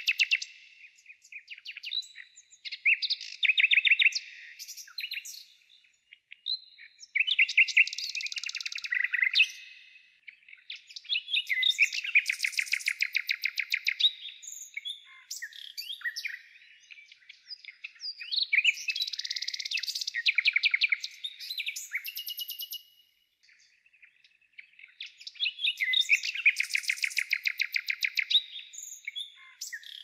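A songbird singing: about six songs, each a fast run of high, rapidly repeated notes lasting two to three seconds, with gaps of a second or more between them.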